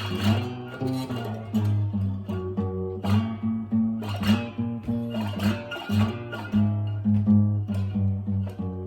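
Acoustic guitar playing an instrumental blues passage, picked and strummed over a steady low bass note.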